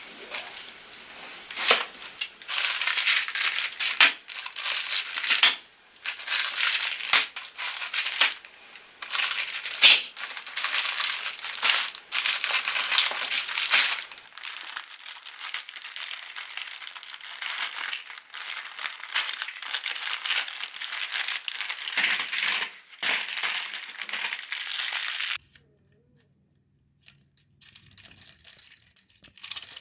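Matchsticks being crushed in a meat grinder: a harsh crunching and crackling in irregular bursts that stops suddenly about 25 seconds in.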